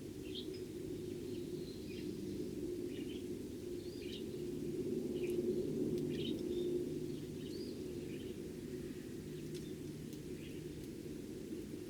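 Eurasian tree sparrows giving short, scattered chirps over a steady low rumble of background noise that grows louder in the middle.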